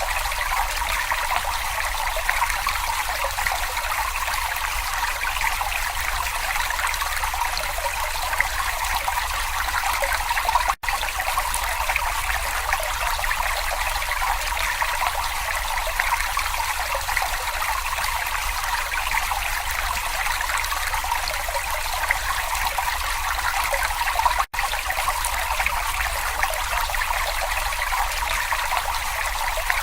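Brook babbling and trickling steadily, cutting out for a split second twice.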